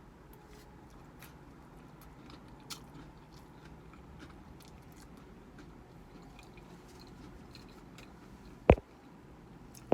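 A person eating soup up close to the microphone: soft chewing with many small faint clicks over a low steady background hum, and one sharp loud knock near the end.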